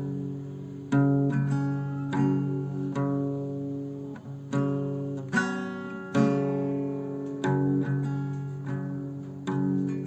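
Acoustic guitar music: slow strummed and plucked chords, each ringing out and fading before the next.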